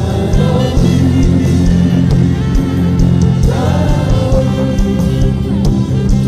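Gospel worship music: a band holds sustained chords over a steady beat. A voice sings a wordless line about three and a half seconds in.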